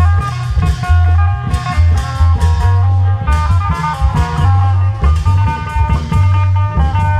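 Isan klong yao procession band playing: deep bass notes held in long stretches under a busy plucked-string melody, with regular drum hits.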